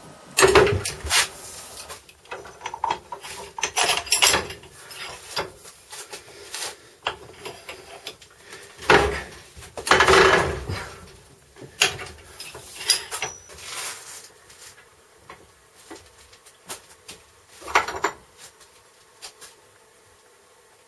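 Irregular clatter of hand tools and metal parts being handled: scattered knocks and clicks with scraping and rubbing in between, dying away near the end.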